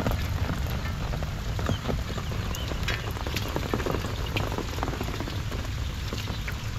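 Steady rain falling on a flooded paddy field, with scattered short ticks and splashes and a low rumble underneath.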